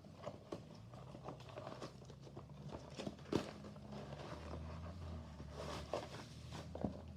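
Soft taps and light rustling of diecast toy car packaging being handled, cardboard and plastic blister cards, over a faint low hum.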